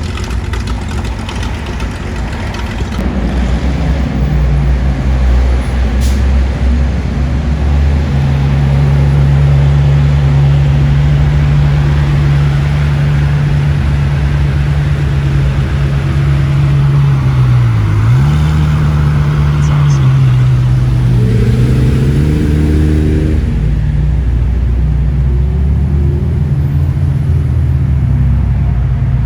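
Car engine running with a steady low drone; its pitch dips briefly about two-thirds of the way through, then rises with a rev before settling.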